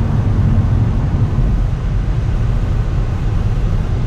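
Cabin noise inside a 2018 Kia Stinger GT1 driving over a rough, broken road surface: a steady low rumble of tyres and engine.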